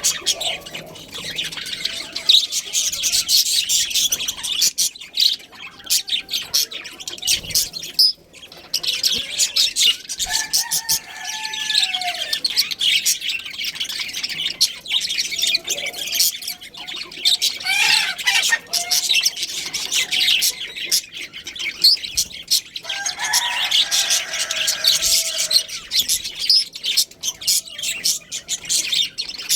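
A flock of budgerigars chirping and chattering continuously, a dense mass of high chirps, with a few lower calls about a third of the way in and again near the end.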